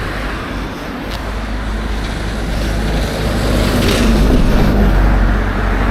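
Road traffic rumbling, swelling as a vehicle passes about four seconds in.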